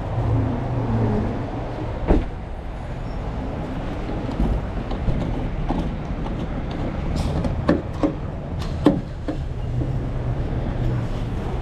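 Pickup truck running: a steady low rumble with a few sharp clicks and knocks in the middle.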